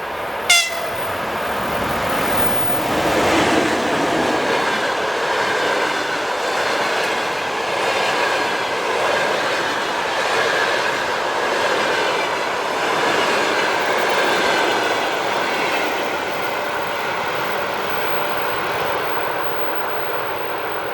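Passenger train hauled by an EP2K electric locomotive passing at speed, a steady loud rolling of wheels on rail with clickety-clack. A brief sharp pitched blip sounds about half a second in.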